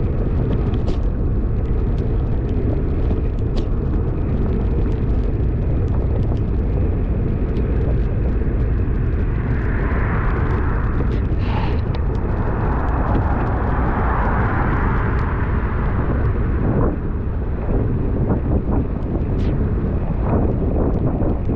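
Steady wind rumble on the camera microphone of a bicycle descending fast in heavy rain, with many small ticks of raindrops striking the camera. Between about ten and fifteen seconds in, a hiss swells twice as a vehicle's tyres pass on the wet road.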